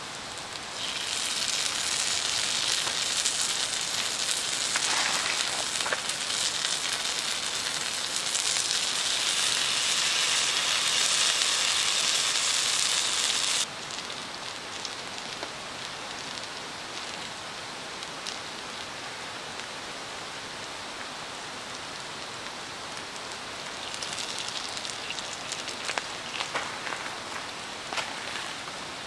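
Okonomiyaki sizzling in a frying pan over a campfire as sauce is brushed onto it: a loud, even hissing sizzle that cuts off abruptly about halfway through, leaving a quieter hiss. The sizzle swells again near the end, with a few crackles.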